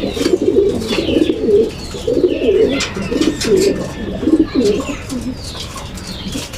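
Many racing pigeons cooing continuously in a loft, a dense low warbling chorus, with higher chirping calls and scattered sharp clicks over the top.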